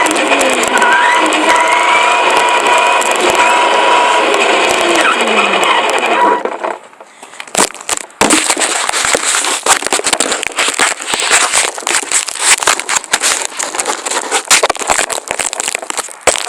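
Electric RC car motor whining close to the onboard camera, its pitch rising and falling as the car speeds up and slows. About seven seconds in the sound drops off suddenly for a moment, then gives way to a dense, steady crackling and clattering of clicks.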